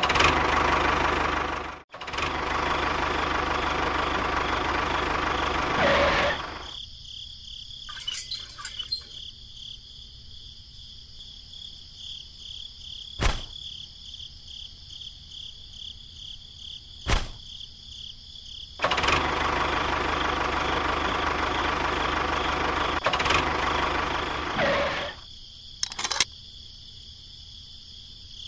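A small motor runs for about six seconds, stops, then runs again for about six seconds near the end. Between the two runs a steady insect buzz holds, broken by two sharp clicks.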